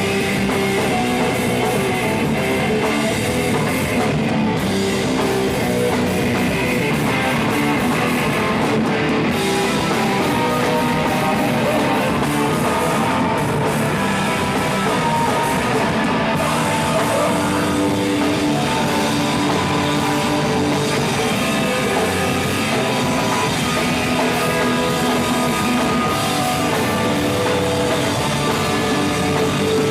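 Live rock band playing loud, with distorted electric guitars and a drum kit.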